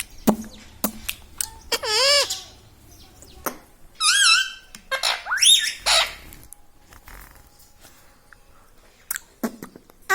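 A pet parrot calls in a few short, wavering squawks, one rising sharply in pitch about five seconds in, with a few sharp clicks near the start and again near the end.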